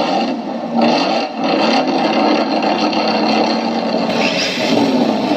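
Electronic engine sound kit in an RC drift car playing a simulated car engine idling through its small speaker after start-up, the engine note wavering in pitch, with a rise in revs about four seconds in.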